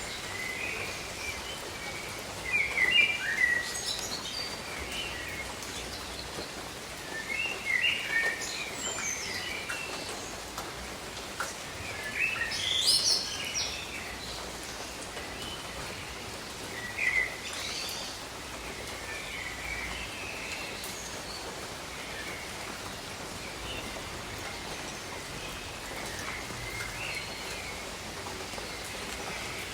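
Steady rain hiss with birds chirping over it: bursts of short calls come often in the first half, the loudest about twelve seconds in, and grow sparse later.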